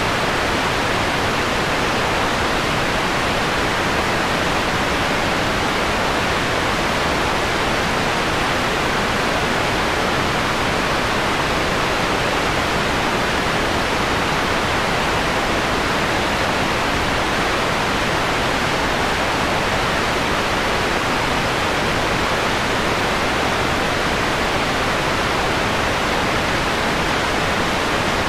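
Synthetic noise, steady and unchanging: an even hiss with its highs rolled off above a few kilohertz, a mellowed white noise closer to pink noise.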